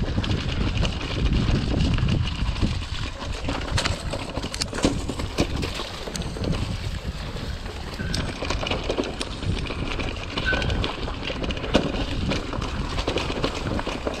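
Mountain bike riding over a rough trail: wind rumble on the microphone with many small knocks and rattles from the bike.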